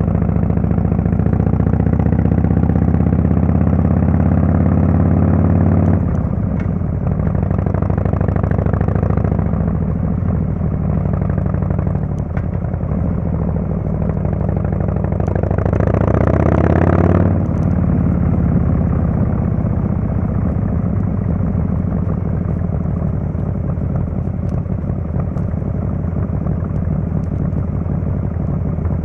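Harley-Davidson Fatboy S's Screamin' Eagle Twin Cam 110 V-twin running through its Kesstech exhaust while riding. It pulls steadily for about six seconds, then eases off. Around the middle a rev rises and drops away suddenly about a second later, then the engine settles into lower, steady cruising.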